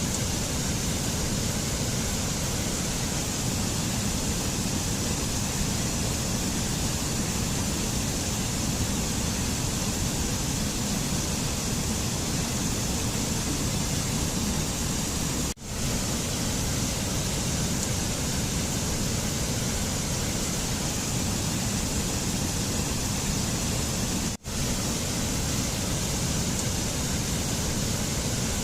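A steady, even rushing noise with no distinct events. It drops out for a split second twice, about halfway through and again near the end.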